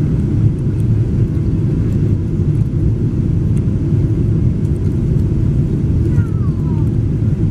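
Aeroplane noise: a steady, loud low rumble with a constant hum through it, and a faint falling whistle near the end.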